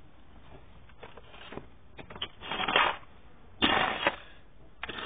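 Beagle puppies eating and scrabbling in a food pan: three short noisy bursts of scuffling, about two and a half, three and a half and five seconds in, between quieter moments.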